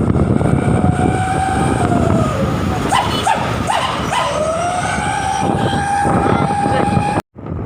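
A truck's novelty 'gukguk' horn sounding a long held tone that dips in pitch and climbs back, broken by a few short dog-like yelps in the middle, over the rumble of the truck's engine. It cuts off abruptly near the end.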